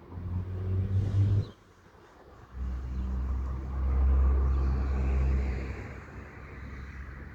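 Low engine hum of a diesel rail vehicle that cuts off abruptly about one and a half seconds in, then another engine sound that swells up, peaks and fades away as it passes.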